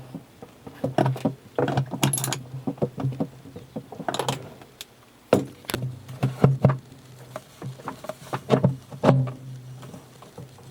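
Irregular knocks and clatter of hard objects being handled, several of them joined by a short low hum lasting about a second.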